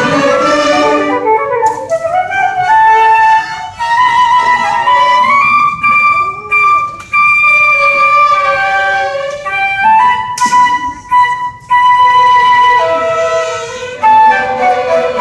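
Flute playing a slow, exposed melodic passage of long held notes over a thin accompaniment, after the full string ensemble drops away about a second in. The fuller orchestral texture comes back in near the end.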